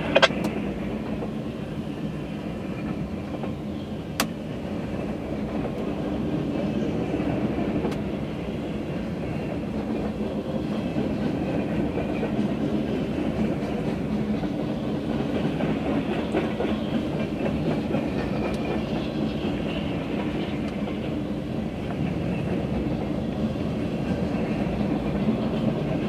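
Freight train of empty centre-beam flatcars rolling steadily past, steel wheels running on the rails, with one sharp click about four seconds in.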